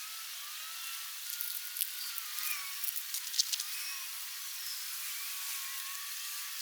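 Outdoor riverbank ambience: a steady hiss with faint thin wavering whistles, and a scatter of sharp clicks and taps between about one and three and a half seconds in.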